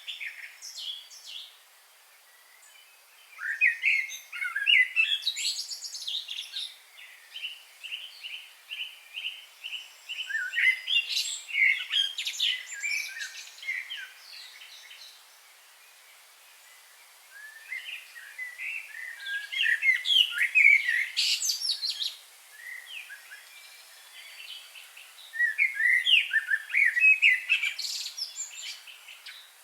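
Wild birds singing and chirping in bursts of quick, varied, high notes, with quieter gaps between the bursts. Between about six and ten seconds in, a rapid, even run of repeated notes is heard.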